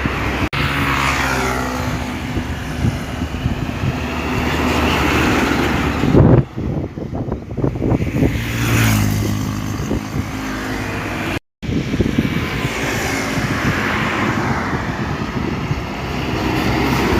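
Isuzu Giga tanker trucks driving past in convoy, their diesel engines running, with pitch sliding down as trucks pass and one swelling up later on. The sound breaks off twice in brief cuts.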